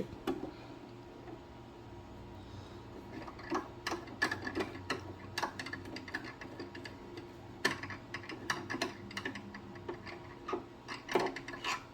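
Scattered light clicks and taps from hands working the thread and parts of a sewing machine while threading it, irregular and spaced out, over a faint steady hum.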